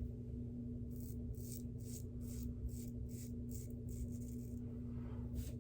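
Shavette razor with a half DE blade scraping through stubble in short, quick strokes, about three a second, over a steady low hum.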